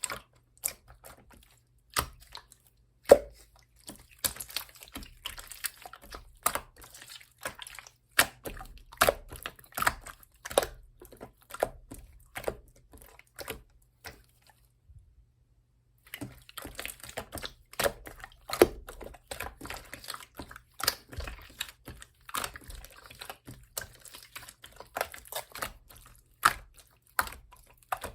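Clear pink slime being squished, stretched and poked by hand, giving irregular sticky clicks and small air-bubble pops, with a brief silent break about halfway.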